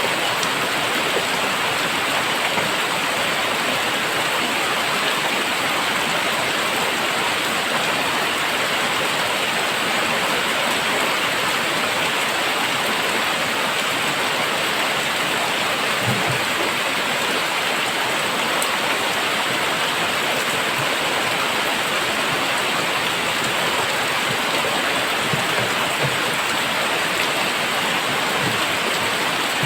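Very heavy rain falling in a steady, dense downpour, with an occasional faint drop or knock heard through it.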